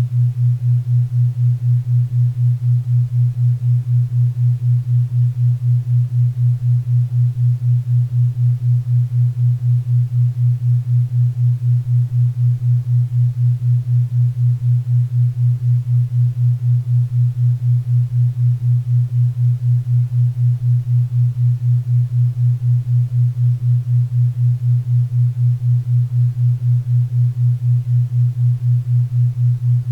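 Low hum-like tone throbbing evenly about four times a second, a 4 Hz theta-wave beat, over a faint bed of pink and brown noise.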